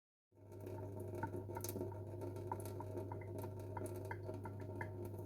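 Water draining from instant noodles into a sink, with small drips pattering a few times a second over a steady low hum. It cuts in suddenly a moment in.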